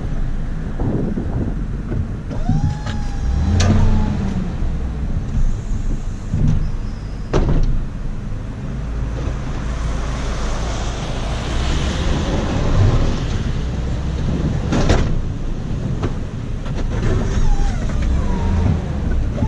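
Ford F-250 pickup's 6.2-litre gas V8 running with a steady low rumble, three sharp knocks and a few short gliding whines over it.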